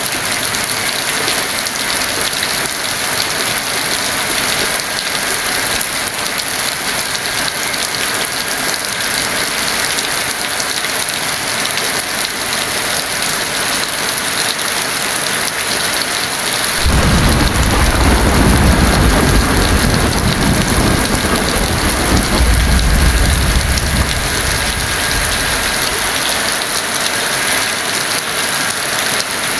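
Heavy rain falling steadily. A little past halfway a roll of thunder breaks in suddenly, rumbles deep for about nine seconds and fades out.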